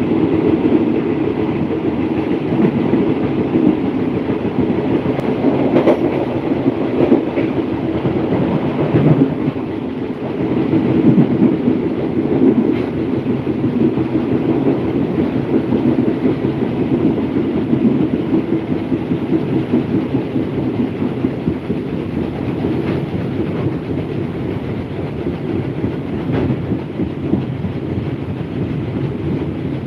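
Thai passenger train running along the track, heard from on board: a steady rumble of wheels on rail, with occasional faint clacks.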